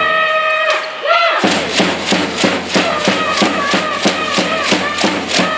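Organised cheering from volleyball spectators: a held musical note, then from about a second and a half in steady beats about three a second under chanting voices.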